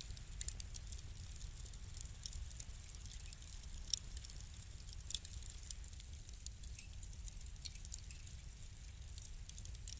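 Wood fire crackling in a fireplace: frequent small, sharp pops over a low steady rumble, with a louder pop about four seconds in.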